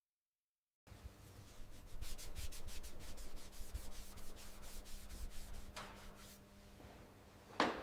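Quick repeated rubbing strokes against a surface, typical of hand sanding or scrubbing, starting about a second in over a steady low hum. A sharp knock comes near the end.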